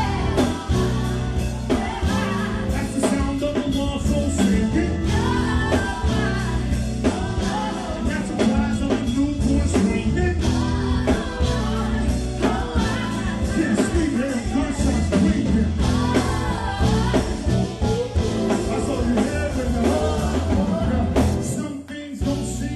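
Live band music with singing over a steady bass and drum groove, dropping out briefly near the end.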